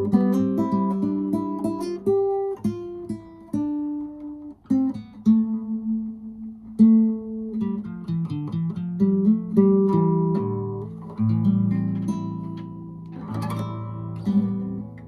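Instrumental music: acoustic guitar plucking and strumming a run of notes over lower held notes, with no singing.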